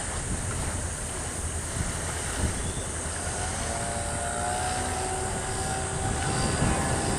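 A motor's steady drone, with a faint whine that rises slightly in pitch over the second half.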